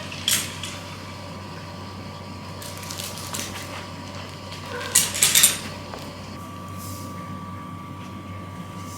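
A few light clicks, then a brief clatter of hard objects about five seconds in, over a steady low room hum.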